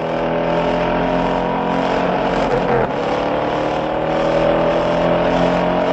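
Car engine revving, its pitch climbing slowly, with a short break about three seconds in.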